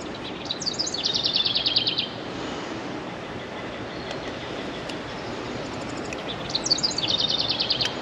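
A songbird sings twice, each song a few quick falling notes running into a fast, even trill, over a steady outdoor hiss.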